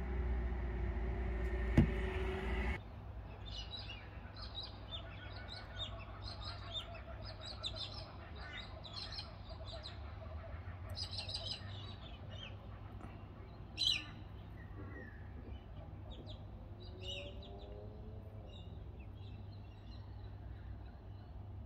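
Small birds chirping in short, repeated high calls in the background, over a low steady hum. A louder hum in the first few seconds cuts off suddenly, with a sharp click just before it stops and another click about halfway through.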